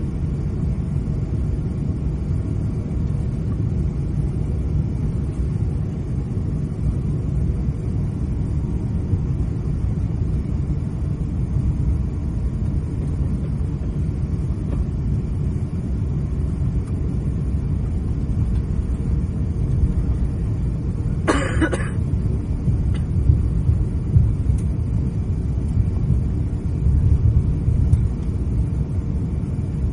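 Steady low rumble of an Airbus A350-900 cabin while the airliner taxis after landing. One short cough is heard about two-thirds of the way through.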